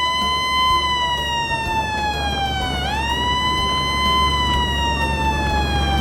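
Ambulance siren wailing: a single tone that rises quickly and then slides slowly down, twice, about three seconds a sweep, over a steady low rumble.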